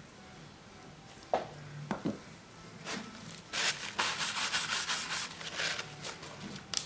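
Hand repair work on a smartphone: a few sharp clicks, then a couple of seconds of rapid scraping or rubbing strokes, about five a second, and another click near the end.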